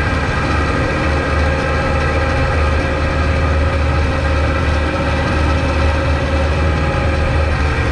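Kubota MX5200 tractor's four-cylinder diesel engine running steadily at a constant speed, with an even low hum and a steady higher whine over it.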